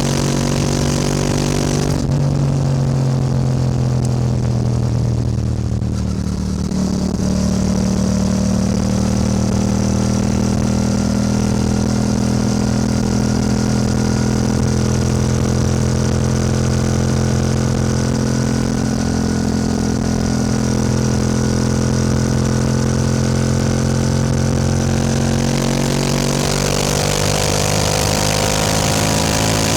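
Yamaha R7 motorcycle engine running under way. The revs ease off about two seconds in and settle into a steady cruise, then climb again near the end as the rush of wind grows.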